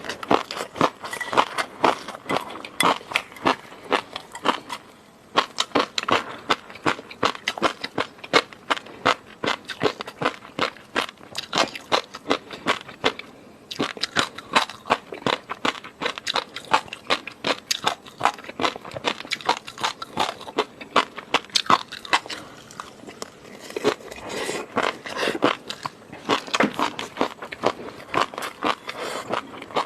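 Close-miked eating sounds: a person chewing noodles, with rapid wet clicks and smacks of the mouth, pausing briefly twice.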